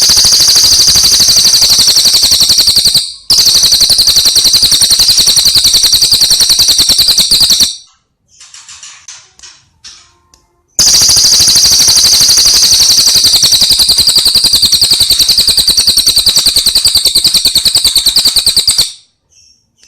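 Bird song from a recording for training cage birds: a loud, high, very rapid rattling trill, held for about seven seconds. It breaks off briefly and resumes after a few seconds of softer chirps for another long bout.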